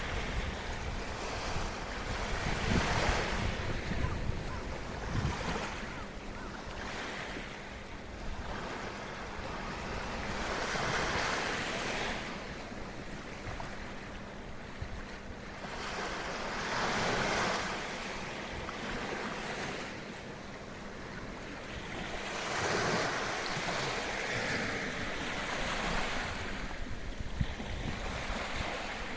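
Small waves breaking and washing up the shore of a sheltered bay, the surf swelling and easing every few seconds. Wind buffets the microphone with a low rumble, strongest in the first few seconds.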